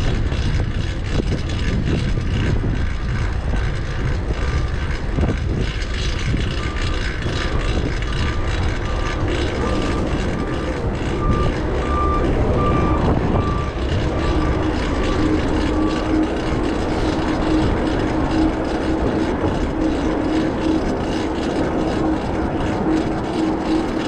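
Steady low traffic and vehicle rumble with a vehicle's reversing beeper pulsing for about ten seconds in the middle, followed by a steady lower hum from a vehicle that runs on to the end.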